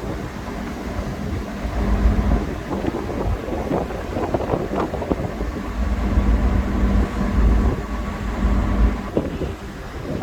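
Typhoon-force wind buffeting the microphone in gusts, over a steady low hum from the ship.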